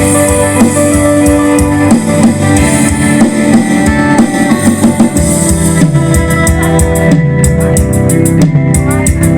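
A band playing music: guitar and keyboard notes over a drum kit keeping a steady beat, the cymbal strokes coming quicker in the second half.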